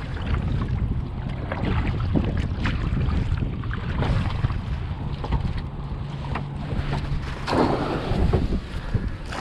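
Wind buffeting the microphone over water splashing and lapping around a kayak on moving water, with a low steady hum for a few seconds in the middle.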